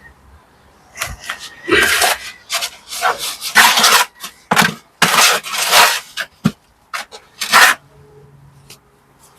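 Steel trowel scraping and working mortar on brickwork: a run of about a dozen rough scrapes, irregular and of varying length, with a sharp knock or two among them.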